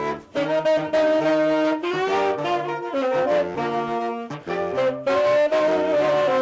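A saxophone quartet (soprano, alto and tenor saxophones among the four) playing a piece in close harmony, several held notes moving together from chord to chord.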